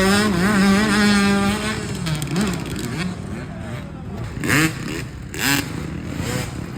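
Dirt bike engines revving up and down, one bike loud for the first couple of seconds and then fading away. Two shorter rising revs from passing bikes come about four and a half and five and a half seconds in.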